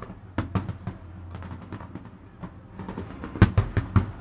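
Fireworks going off in a series of sharp bangs. A few come early, fainter ones follow in the middle, and a loud rapid cluster comes about three and a half seconds in.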